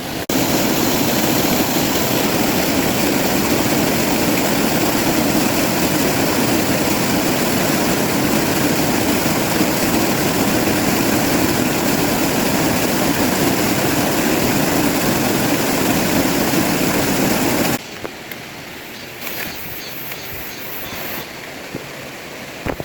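Mountain-stream waterfall making a loud, steady rush of water. About eighteen seconds in it cuts suddenly to a quieter rush of water with a few light ticks.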